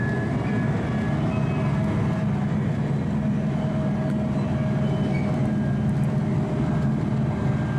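Steady running rumble inside an E5 series Shinkansen car as the train slows down from high speed, with faint steady tones above the low rumble.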